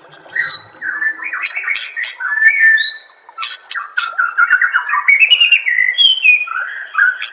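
White-rumped shama singing a fast, varied song of whistled and chattering phrases that jump and glide in pitch, broken by sharp clicks.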